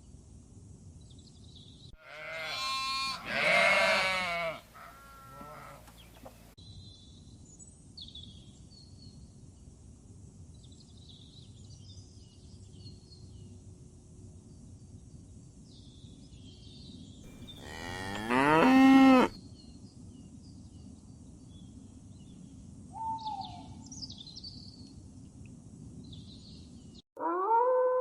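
A cow mooing twice, two long loud calls well apart, over faint outdoor ambience with small bird chirps. Near the end the sound cuts abruptly to a different steady pitched sound.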